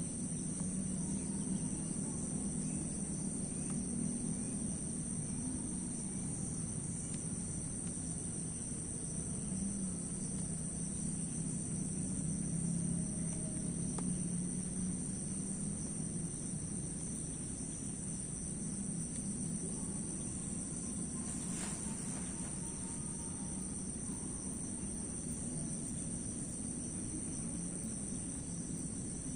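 Steady night chorus of crickets, an even high-pitched trill that never breaks, over a low steady rumble.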